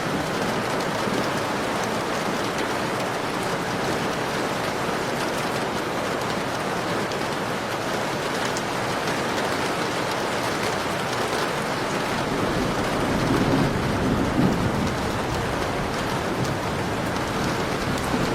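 Heavy rain pouring steadily, with a low roll of thunder rumbling about two thirds of the way through.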